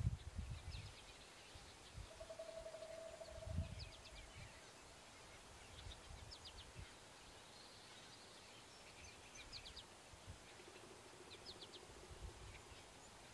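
Faint bird calls: short clusters of three or four quick, high notes repeating every couple of seconds, with a single held lower note about two seconds in. Low rumbles come and go underneath.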